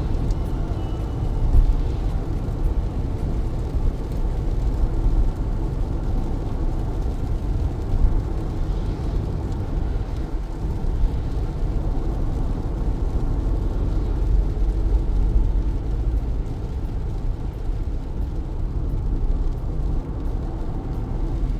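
Car driving in heavy rain: a steady low rumble of engine and tyres on wet road under a fainter wash of rain, with a couple of brief bumps.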